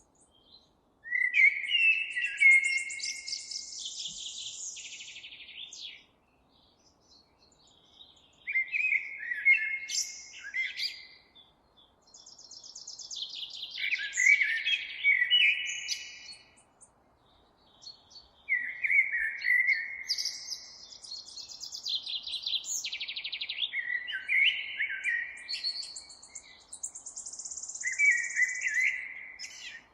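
A songbird singing several song phrases a few seconds long, separated by short pauses. Each phrase opens with lower warbled notes and runs up into a high, fast trill. A faint steady hiss runs underneath.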